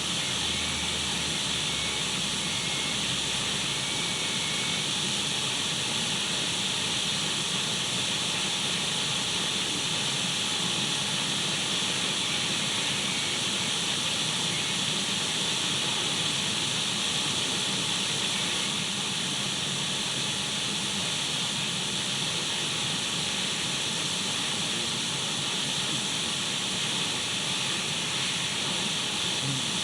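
Radio static: the steady hiss of an untuned radio, unchanging in level, brightest in the upper range with a few faint steady whistles running through it.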